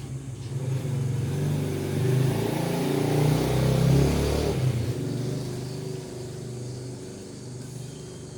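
A motor vehicle's engine running and passing by: it grows louder, peaks about four seconds in, then fades away.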